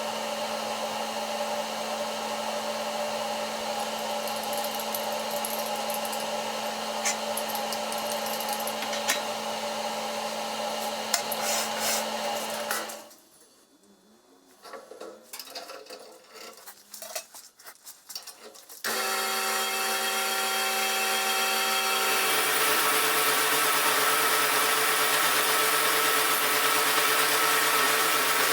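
An electric power tool's motor running steadily with a constant hum, shut off for about six seconds of faint clicks and handling noises, then started again and running louder, its pitch shifting a few seconds after restarting.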